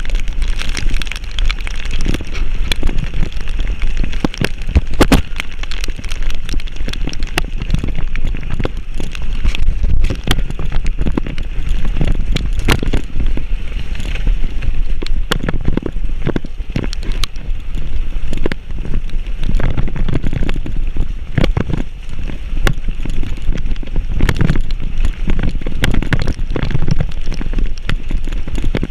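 Loud low rumble of wind buffeting the microphone, with rain pattering and crackling throughout as scattered sharp clicks.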